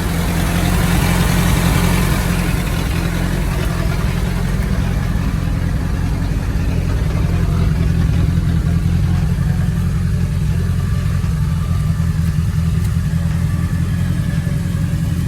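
Off-road vehicle's engine running steadily, with a hiss of noise over it in the first couple of seconds.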